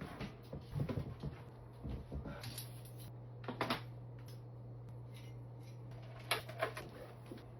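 Household objects being handled and set down during unpacking, with a few sharp knocks and lighter clicks, over a steady low hum.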